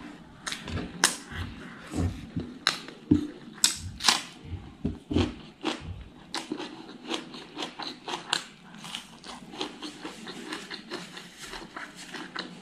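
Close-miked eating sounds: wet chewing and lip smacks, an irregular string of sharp mouth clicks with the loudest smacks in the first half.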